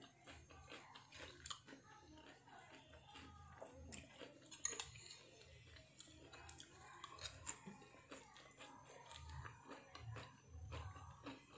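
Faint chewing and mouth sounds of a person eating, with scattered small clicks and taps of a spoon against the plate.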